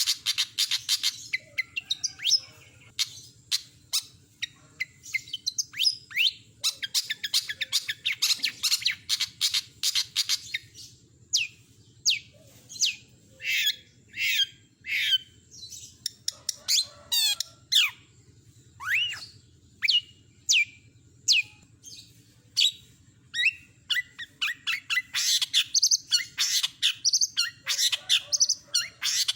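Long-tailed shrike singing a varied song: fast chattering trills, then a run of separate sharp down-slurred notes in the middle, then fast trills again near the end.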